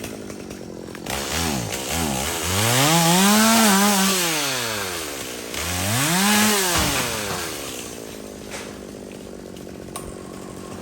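Chainsaw engine revved up to high speed and back down twice, the first time for about three seconds, then dropping to a steady idle.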